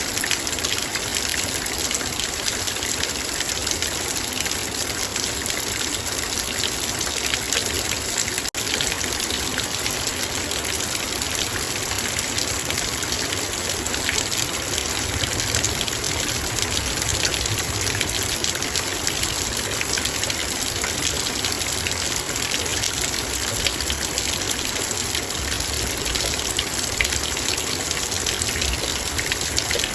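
Heavy rain drumming steadily on a metal bowl, a dense patter of many fine drop ticks over a constant hiss.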